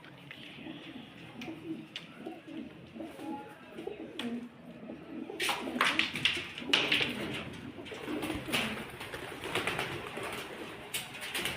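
Pigeons cooing in a small enclosure, with low calls repeating throughout. From about halfway in, louder bursts of rustling and clatter join the cooing.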